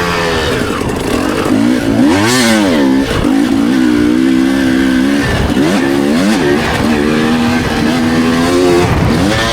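Motocross dirt bike engine rising and falling in revs as the throttle is opened and shut. It gives a quick rev up and back down about two seconds in and again about six seconds in, holding a steady pull in between.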